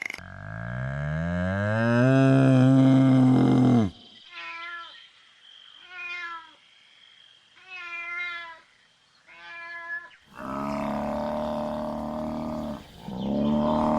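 A long, low animal call that rises in pitch and then holds, followed by a cat meowing four times in short, evenly spaced meows. A cow then moos twice, starting near the end.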